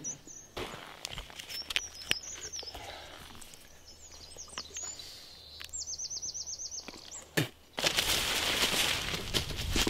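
Forest birds chirping with short, high calls, including a quick run of about ten repeated notes near the middle. About eight seconds in, a dense rustling noise takes over.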